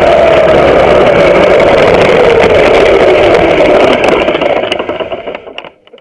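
Vintage racing kart's small two-stroke engine running hard, its pitch slowly falling as the kart slows. The engine sound then dies away over the last two seconds.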